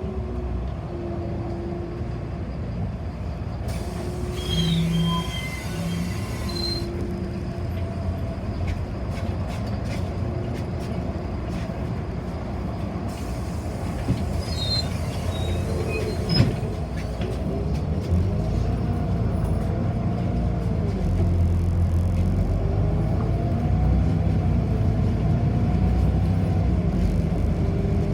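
Inside a moving city bus: a steady low rumble, with a drive whine that rises and falls in pitch as the bus speeds up and slows. There is a single sharp knock about two-thirds of the way through.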